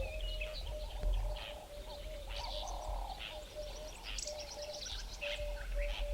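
Several wild birds calling, a mix of short chirps and whistles overlapping one another. Underneath runs a low, steady string of short repeated notes that alternate between two pitches.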